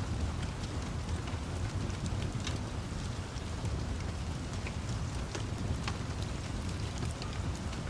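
Steady rain with a continuous low rumble of thunder under it, and scattered sharp crackles from a wood fire.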